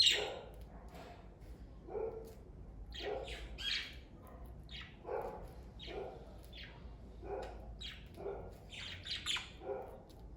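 Budgerigars chirping and chattering in a string of short calls, the loudest right at the start.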